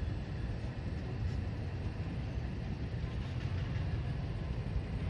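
Freight train moving past: a steady low rumble from its diesel locomotive and rolling cars.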